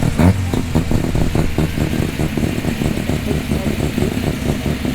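Mazda RX2's rotary engine running as the car rolls past at low speed, its exhaust pulsing rapidly and choppily.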